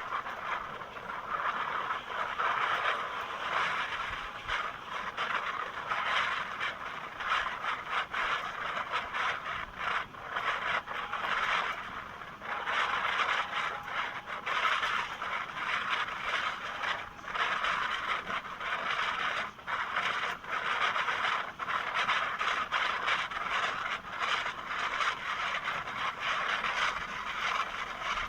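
Moving train running noise: a steady scraping rush of wheels on the rails, with frequent short clicks and rattles throughout.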